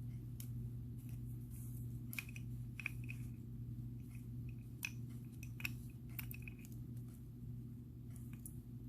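Small irregular clicks of glass and gemstone beads knocking together as they are handled on a beading needle and thread, over a steady low hum.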